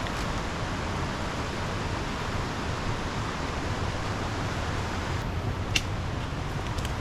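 Steady rushing of river water, with one sharp snap or click a little before the end.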